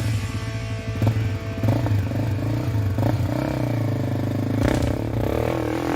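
Small single-cylinder four-stroke trail motorcycle engine running steadily under way, with scattered knocks and rattles from riding over a rough dirt road.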